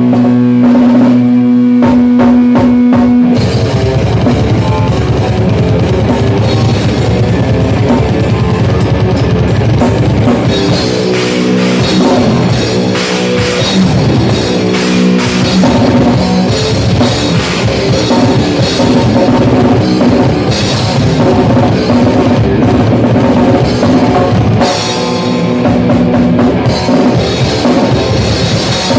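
Rock band rehearsing loudly: a guitar plays held chords alone at first, then the drum kit and the rest of the band come in together about three seconds in and play on at full volume.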